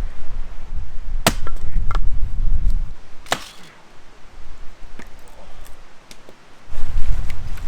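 Firewood being chopped: two sharp, loud strikes about two seconds apart, with a few lighter knocks between and after, over low wind rumble on the microphone.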